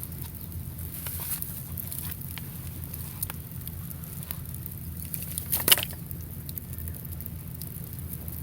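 Small wood fire crackling, with scattered sharp pops, the loudest near the middle, over a steady low rumble.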